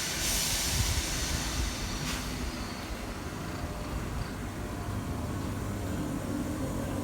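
Passenger train at a station platform, its steady rumble running throughout, with a hiss of air at the start and again about two seconds in, and a faint tone rising slightly near the end.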